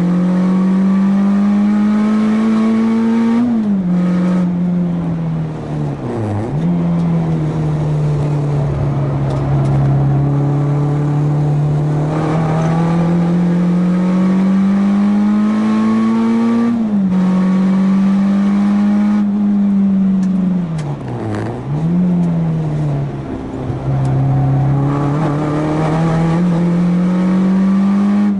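A four-cylinder track car's engine heard from on board, pulling hard under full throttle. The pitch climbs steadily and falls sharply at upshifts about three and a half seconds and seventeen seconds in. It plunges and rises again quickly around six and twenty-one seconds, as the car brakes and downshifts for corners.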